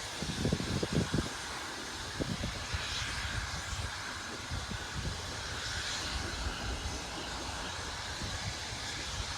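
Railway train running: a steady rumble and hiss, with a few low knocks in the first couple of seconds.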